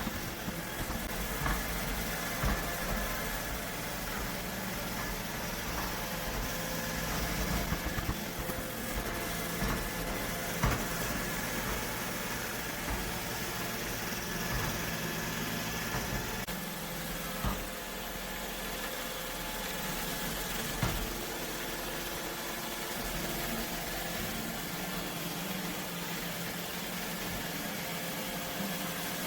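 Robot vacuum running: a steady motor hum with a few short knocks.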